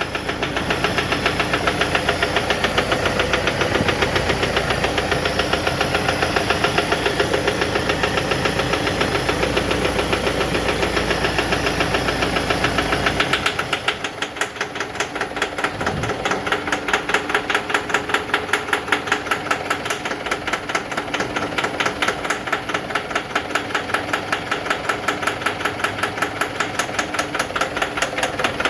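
Toyota Innova turbodiesel engine idling with a harsh, rapid, even knock, the rough running put down to a faulty, misfiring injector. About 13 seconds in, the low rumble drops away and the knocking carries on more sharply.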